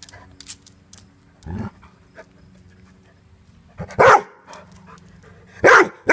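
A Weimaraner barking in alarm at an unfamiliar feather. A lower woof comes about a second and a half in, then loud, sharp barks about four seconds in and twice near the end.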